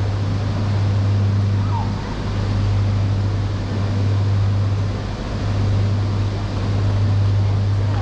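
Station platform ambience beside a stopped E3 series Shinkansen: a steady low hum under an even, noisy wash of sound.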